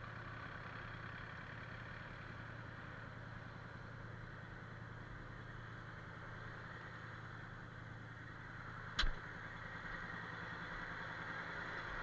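An engine running steadily at idle as a low, even hum, with a single sharp knock about nine seconds in.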